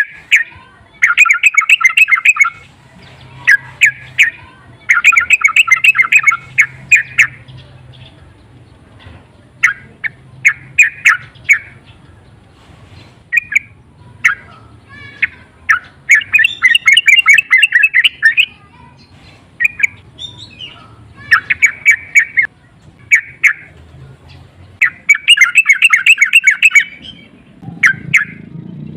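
Yellow-vented bulbul (trucukan) calling loudly in bursts of rapid chattering notes, each burst a second or two long and repeated with short gaps. This is the agitated, excited calling that bird keepers play to provoke other bulbuls.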